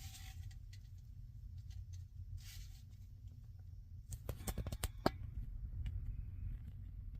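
GE top-load washing machine running its wash cycle with a low steady hum, and a quick run of clicks and rattles about four seconds in. The agitator stays still because the gearbox/transmission is broken.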